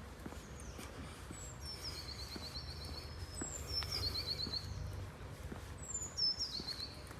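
A songbird singing a short phrase three times, each dropping in steps from high to lower pitch and ending in a quick trill. Under it is a steady low rumble and soft, regular footsteps.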